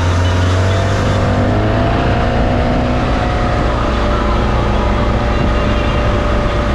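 Boat engine running steadily under way, a loud low drone with a whine that rises slightly in pitch about a second and a half in and then holds.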